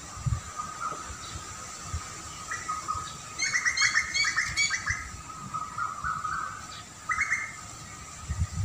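Songbird giving a rapid chattering phrase of quick repeated notes about three and a half seconds in, and a shorter burst near seven seconds, over a steady high hum. Scattered low thumps.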